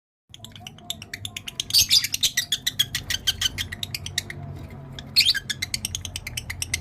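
Male lovebird in breeding condition chattering: a dense stream of rapid high chirps and clicks, with two louder shrill bursts about two seconds in and again after five seconds.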